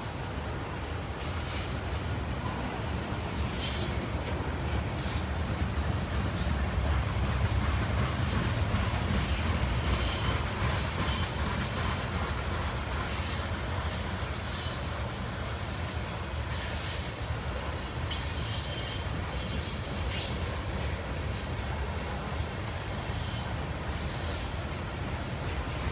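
Freight cars of a long mixed manifest train rolling past: a steady low rumble of steel wheels on rail, with brief high-pitched wheel squeals now and then.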